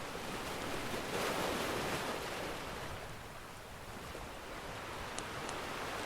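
Ocean surf: a wave washes in about a second in and then draws back. Two faint fire crackles come near the end.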